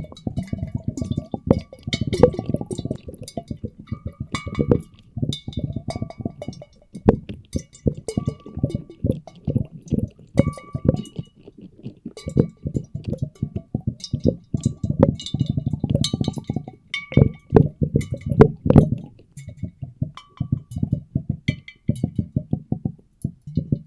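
Muffled underwater water sloshing from a microphone dunked in a bucket, layered with water swirled in glass bottles. It is dense and irregular, with scattered sharp glassy clinks and brief ringing tones.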